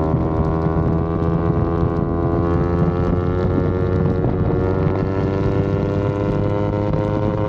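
Yamaha R25's parallel-twin engine running at steady revs on the move, its pitch easing slowly lower. Wind rumbles on the microphone underneath.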